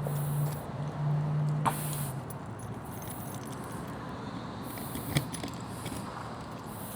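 Rummaging through a bag, with rustling, light jingling and a couple of sharp clicks. A steady low hum stops about two seconds in.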